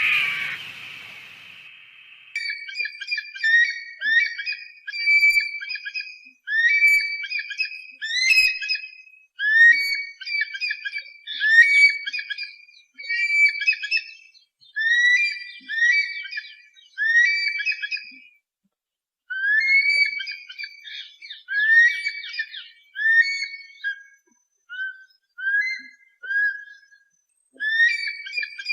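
Eagle calls: rapid series of short, high whistled notes, each with an upward hook, in runs of a few seconds broken by short pauses.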